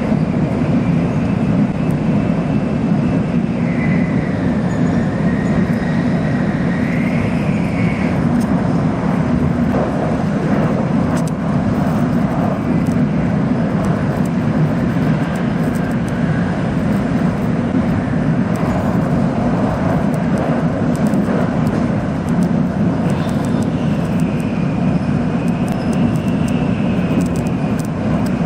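Steady rumble of a Shinkansen bullet train running at speed, heard inside the passenger cabin, with a faint high whine that wavers in pitch.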